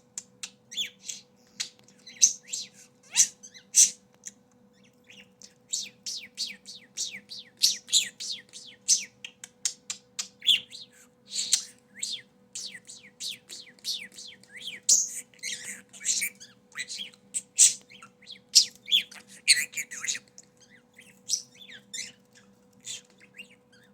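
Male budgerigar warbling and chattering in a long, fast string of short, high chirps: courtship song aimed at an object he has bonded with. A steady faint hum runs underneath.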